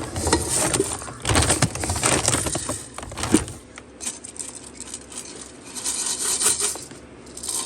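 Irregular clattering, clinking and rustling of small objects being handled, with scattered sharp clicks, busiest in the first few seconds and again near the end.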